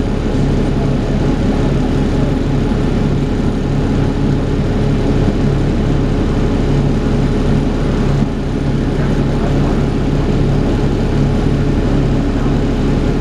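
Dennis Trident 2 double-decker bus running with a steady engine drone and the whine that bus enthusiasts call 'hoovering', held at an even pitch with a slight drop in loudness about eight seconds in.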